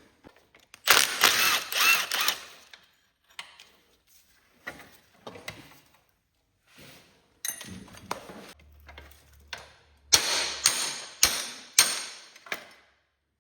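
Hand tools and metal parts on a garden tractor's steering column clanking, scraping and clinking while the steering shaft is removed. The noises come in bursts, a longer one a second in and a quick run of four sharp clanks near the end.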